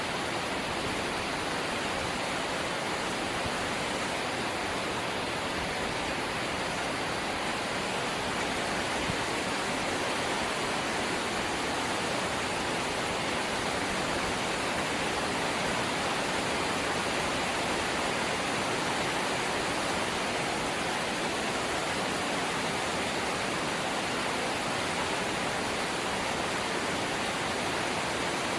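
Light rain falling steadily: an even hiss with no single drops or other events standing out.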